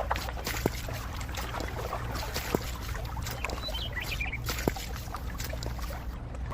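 A small motor hums steadily while water trickles and splashes, likely a miniature water pump. Three sharp clicks come about two seconds apart.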